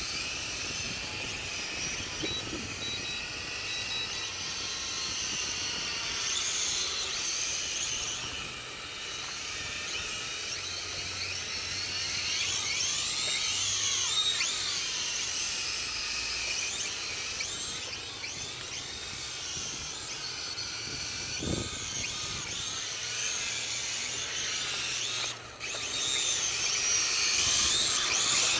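Mould King Super X quadcopter's small electric motors and propellers whining, the pitch constantly wavering up and down as the throttle works to hold the craft against strong wind.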